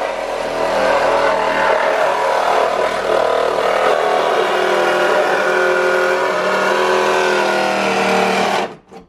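Reciprocating saw (Sawzall) running steadily as it cuts through a car body's sheet metal, then stopping near the end.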